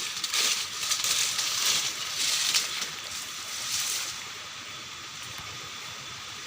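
Strong wind gusting: a hissing rush that swells and fades several times over the first four seconds, then settles to a quieter, steady hiss.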